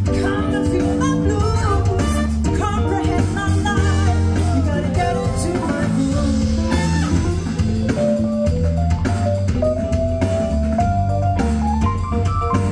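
A band playing music with guitar, bass and drum kit, with singing.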